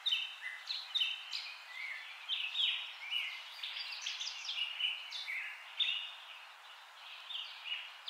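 Small birds chirping and twittering: many short, quick high calls and brief gliding notes, one after another, over a faint steady hiss.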